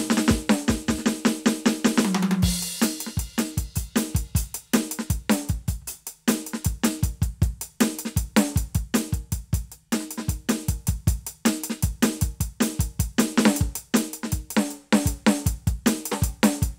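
Roland TD-17KVX electronic drum kit played: a fast fill ends on a cymbal crash about two and a half seconds in, then a steady groove of bass drum, snare and hi-hat follows.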